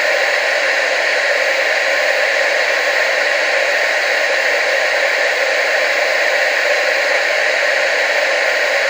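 Steady hiss of TV static, an even noise with its weight in the middle and upper range and almost no bass, unchanging throughout.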